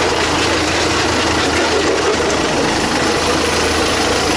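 A Tucker Sno-Cat's engine running steadily, a loud, even mechanical drone.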